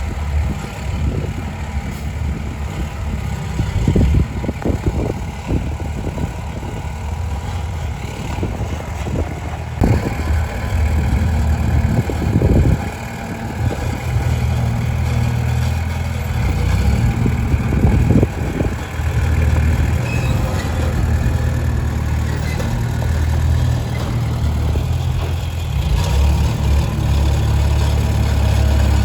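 Diesel engine of heavy earthmoving machinery running and working, its low rumble rising and falling with the throttle, with a few short knocks in the first half and a steadier, heavier drone in the second.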